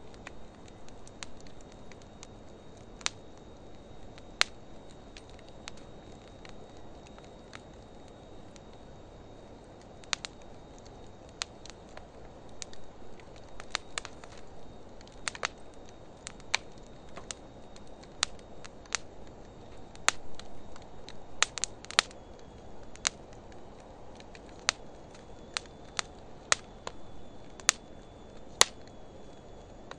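Wood fire of driftwood and dry hardwood logs burning in a fire pit: a steady low rush of flames with sharp crackles and pops at irregular intervals, sparse at first and coming more often in the second half.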